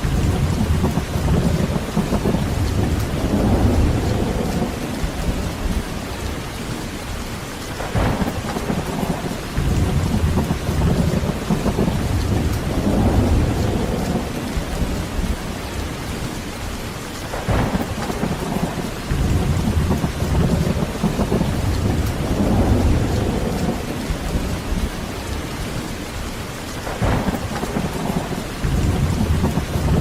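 Heavy rain falling steadily, with rolling thunder rumbling in repeated swells. Three of the thunder rolls open with a brief sharp crack, about every nine seconds, and each rumbles on for several seconds.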